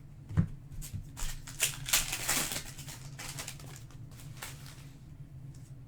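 Trading cards and a pack wrapper being handled: a run of clicks and crinkling for about three seconds, starting about half a second in.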